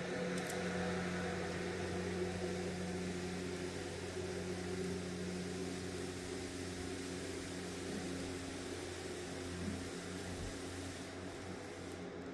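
A steady low mechanical hum over an even hiss, easing off slightly near the end.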